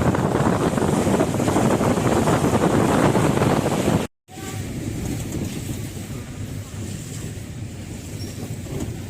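Wind buffeting and road rumble of a moving vehicle, loud for the first four seconds. The sound drops out for a moment about four seconds in, then carries on as a quieter steady rumble.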